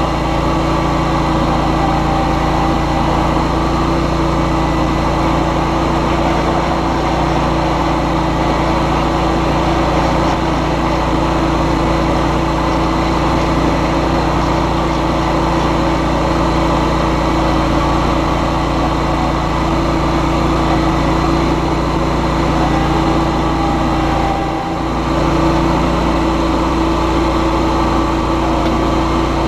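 John Deere X738 lawn tractor's engine running steadily, with a brief dip in level about 25 seconds in.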